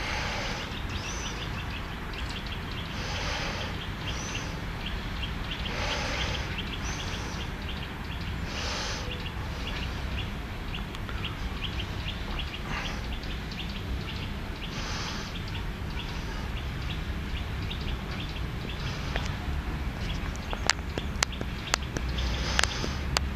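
Birds chirping in a rapid series of short high notes, about four a second, over a steady low outdoor rumble. A few sharp clicks come near the end.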